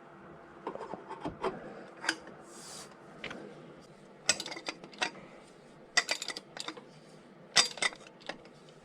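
Metal hand tools clinking and rattling: sockets, extensions and wrenches knocked and handled, metal on metal. The clicks come irregularly, in small clusters, with no motor running.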